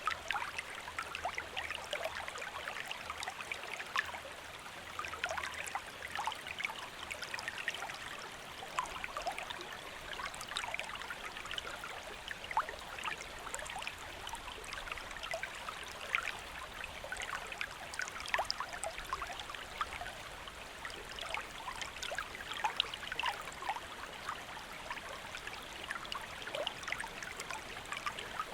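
Shallow stream or small river flowing steadily, a continuous rush of water with fine splashing and bubbling over stones.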